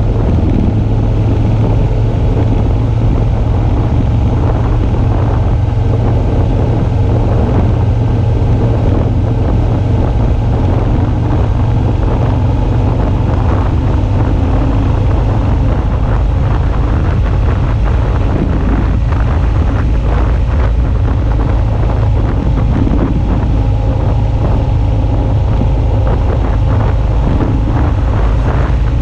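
Suzuki V-Strom 650's 645 cc V-twin engine running at a steady note while riding, with wind noise rushing over the camera microphone.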